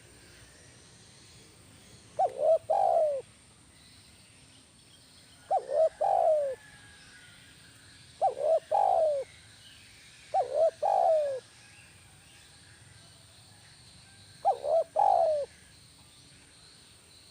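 Spotted dove (tekukur) cooing five times, a few seconds apart. Each call is two short notes followed by a longer coo that falls in pitch.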